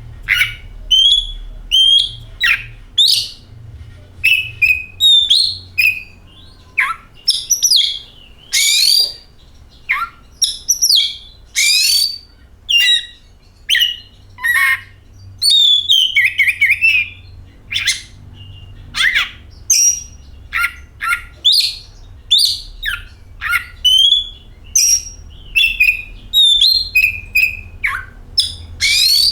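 Oriental magpie-robin (kacer) singing: a continuous, varied run of short whistled notes and chirps, many sliding up or down in pitch, with a faint low hum beneath.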